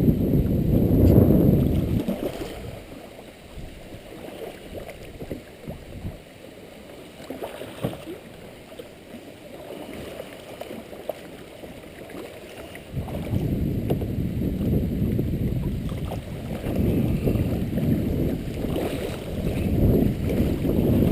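Wind buffeting the microphone out on the water, a low rumble that drops away after about two seconds and comes back in gusts from about two-thirds of the way through.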